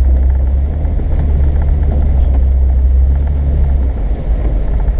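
Off-road vehicle running along a trail, heard from inside: a steady low engine and drivetrain rumble that eases off slightly about four seconds in.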